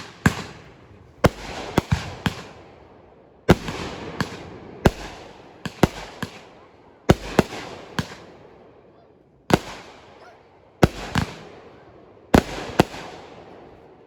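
Fireworks going off in quick succession: sharp bangs, often in pairs or clusters every second or two, each followed by a fading rumble and crackle.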